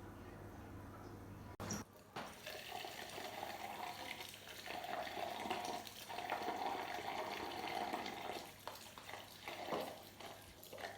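Water running and splashing, starting after a cut about a second and a half in; before the cut only a low steady hum.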